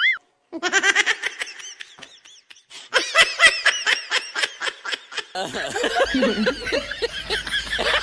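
Rapid, high-pitched laughter in quick repeated pulses. About five seconds in it cuts abruptly to a noisier mix of overlapping voices and laughter.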